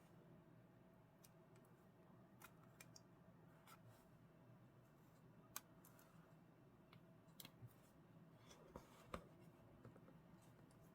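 Faint, sparse clicks and light rustles of paper-craft work, such as scissors and paper being handled, over a low steady hum. The sharpest ticks come about five and a half and nine seconds in.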